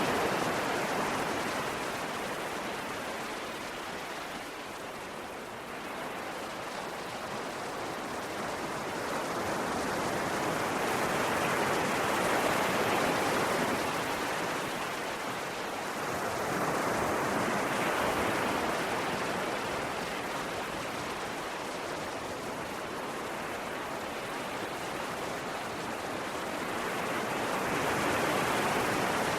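Ocean waves: a continuous rush of surf that swells and falls back in slow surges every several seconds.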